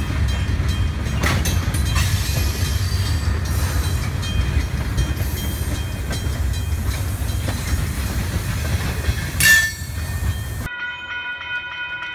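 Loaded freight cars rolling past at close range: a steady low rumble with wheels clicking over rail joints, and a brief high squeal about nine and a half seconds in. Near the end the sound cuts to a railroad crossing bell ringing steadily.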